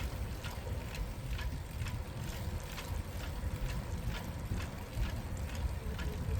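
Riding a bicycle through a city street: steady wind and road rumble on the microphone, with a run of light, regular ticks about two to three a second.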